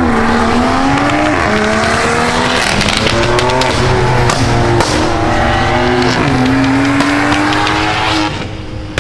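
Car engine revving hard as it accelerates away. Its pitch climbs and then drops at each of several upshifts, with a burst of sharp crackles in the middle, and it falls away about a second before the end.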